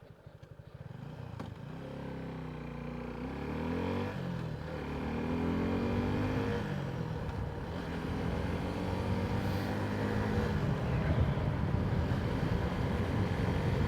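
Motorcycle engine pulling away and accelerating through the gears, its pitch rising and dropping back at each shift, then running steadily at speed. It is heard through a mic inside the rider's helmet.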